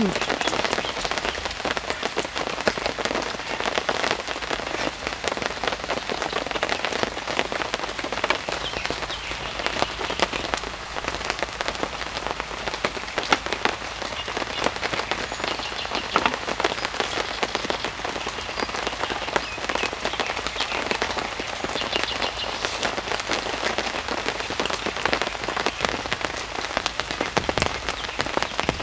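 Steady summer rain falling in a forest, with dense, countless drops striking surfaces at an even level.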